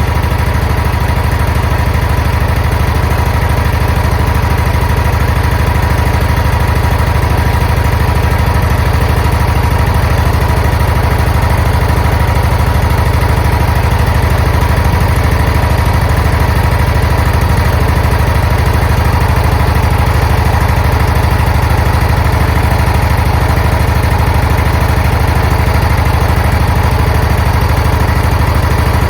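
Zero-turn mower engine idling steadily, run to circulate freshly added hydrostatic transmission oil.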